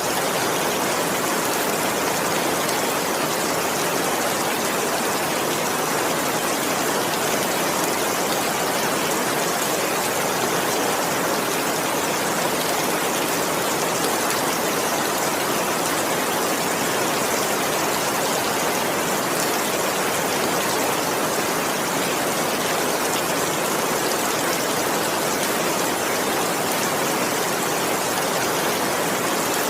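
Heavy rain falling in a steady, dense hiss, without thunder.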